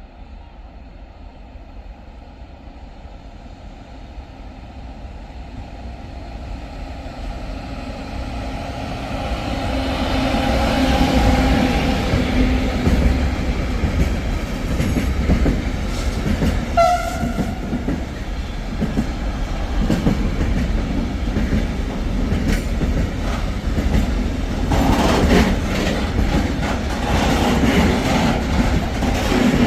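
A train approaching and passing, growing louder over the first ten seconds or so. A brief horn note sounds about halfway through, and near the end the wheels clatter over the rail joints.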